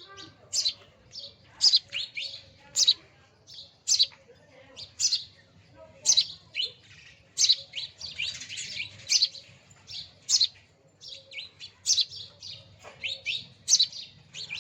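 Small bird chirping: a long run of short, sharp, high-pitched chirps, roughly one or two a second at irregular spacing.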